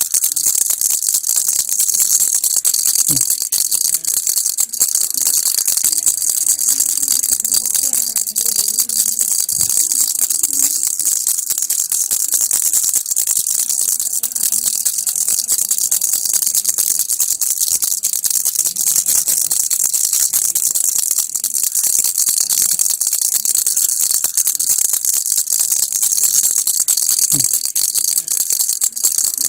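Baby rattle (kilukki) shaken steadily and without pause, its beads making a dense, high-pitched patter of tiny clicks.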